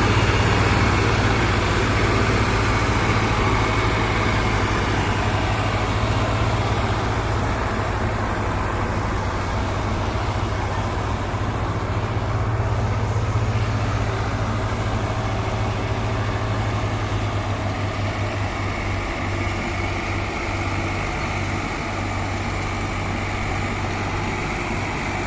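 Diesel engines of a tractor and a combine harvester running steadily as the machine just towed free of the mud drives on; a low drone that grows slowly fainter and becomes uneven in the second half.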